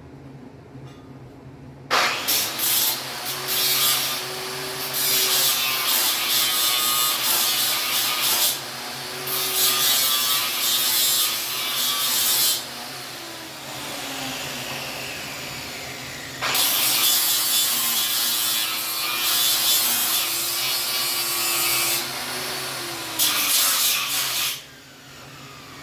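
Angle grinder grinding steel in long passes, starting about two seconds in. The motor's pitch sags as it bears down and recovers between passes, with a quieter stretch in the middle, and it stops shortly before the end.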